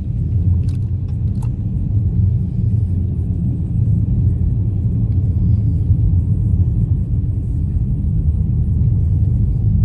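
Steady low rumble of a moving car's engine and tyres, heard from inside the cabin. There are two faint clicks about a second in.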